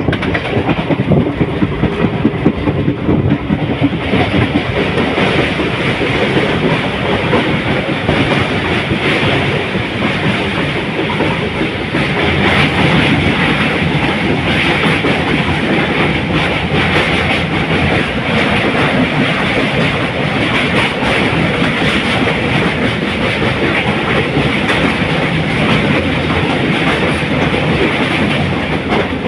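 Guwahati–Silchar Express passenger train rolling on the track, its wheels clacking over the rail joints over a steady running noise that grows a little brighter a few seconds in.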